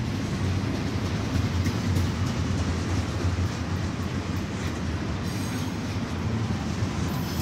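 Double-stack intermodal freight train's well cars rolling past close by: a steady low rumble of steel wheels on rail, with a few faint clicks.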